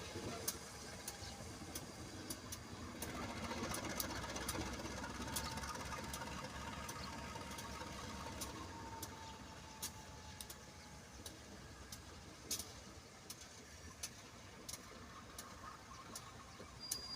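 Low engine rumble of a train moving away, fading slowly, with scattered faint clicks and a brief thin tone in the middle.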